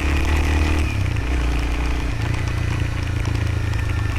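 Motorcycle engine running on a dirt-road ride, its note dropping about a second in as the throttle eases, then settling into a steady low drone.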